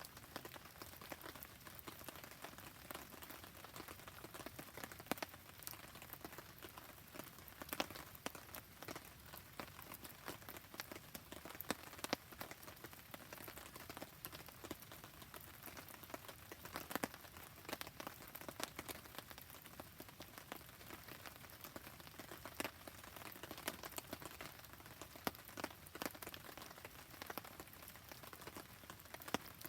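Steady rain and a wood campfire: an even hiss of rain with frequent sharp crackles and pops scattered through it.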